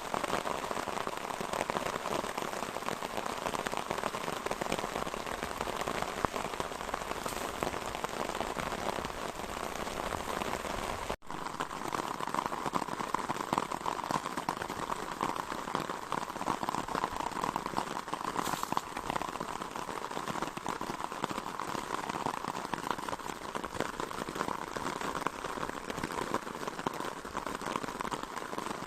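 Steady rain falling, a dense hiss of many fine drops, briefly cutting out about eleven seconds in.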